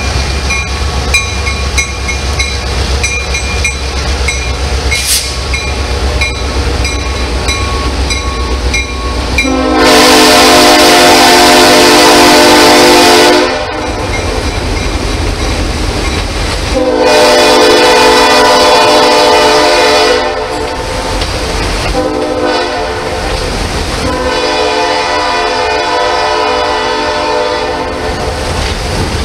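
Passenger train crossing a steel truss bridge, its wheels clicking over the rail joints with a low rumble. The locomotive horn then sounds three long blasts, the first two loud and the third, near the end, quieter.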